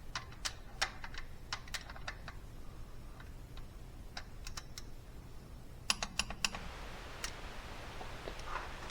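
Irregular light clicks and taps of hand tools and small metal parts being handled on the engine, with a quick cluster of clicks about six seconds in.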